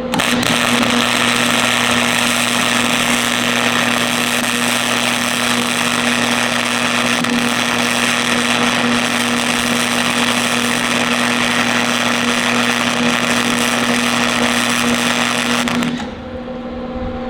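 Wire-feed welder's arc crackling and hissing steadily for about sixteen seconds, then cutting off suddenly, over a steady electrical hum that carries on after the arc stops.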